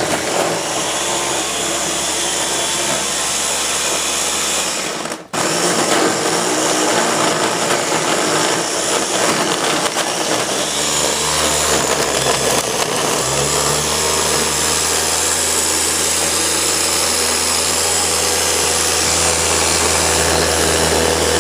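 Ninja blender motor running at full speed, churning thick ice cream. It cuts out for a moment about five seconds in, then starts again and runs on steadily.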